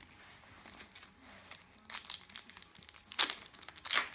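Crinkling of a trading-card packet's wrapper being handled: quiet at first, then irregular crackling from about halfway in, loudest in two sharp crackles near the end.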